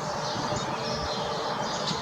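Small songbirds chirping and twittering, a run of short high calls over a steady outdoor background hiss.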